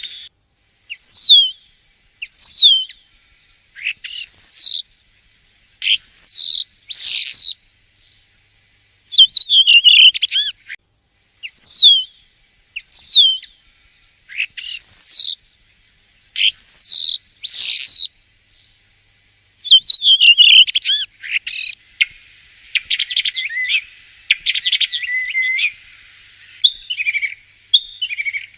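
Common starling singing: thin, steeply falling whistles and short warbled phrases with pauses between them. Near the end the song turns to a fast, buzzy, rattling phrase.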